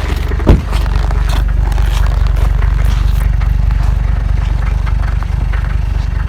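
Diesel engine running rough and clattery in deep frost just after a cold start, with a steady low rumble and rattling, and one loud knock about half a second in.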